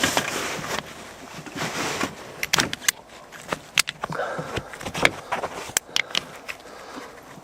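Brief rush of noise, then a series of sharp metallic clicks and clanks as Pioneer-style hydraulic quick-connect fittings on a coolant hose are handled and pushed onto a truck's heater line.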